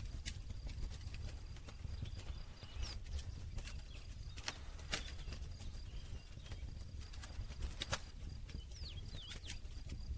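Wood campfire crackling: irregular sharp pops and snaps over a low, steady rumble of the flames, with the loudest pops about five and eight seconds in.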